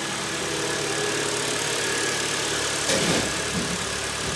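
Hyundai G4KD 2.0-litre four-cylinder petrol engine idling steadily, soft and clean after repair of its scored cylinders, with no piston knock. A short noise sounds about three seconds in.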